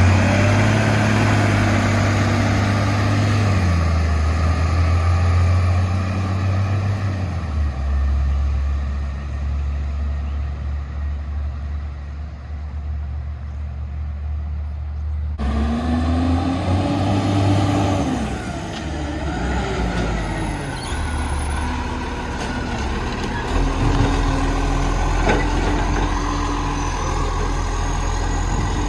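Garbage truck's engine running, its note rising and falling, with an abrupt change in the sound about halfway through.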